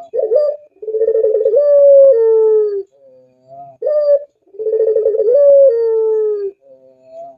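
Puter dove (domestic Barbary dove, pelung type) cooing: two long coo phrases, each opening with a short rising note, rolling into a quavering trill and ending in a long, slowly falling note.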